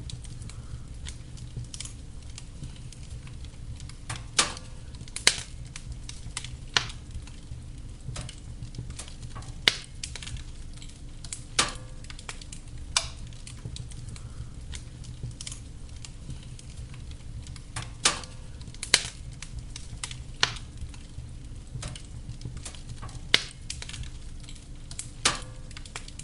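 Wood fire burning in a fireplace: a steady low rumble of flames with sharp crackles and pops of burning logs every second or two.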